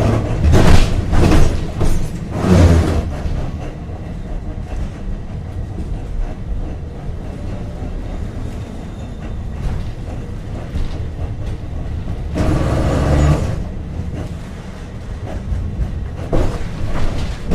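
Rail vehicle, likely a tram, running along its track: a steady low rumble with louder clattering passages in the first few seconds, again about twelve seconds in, and near the end.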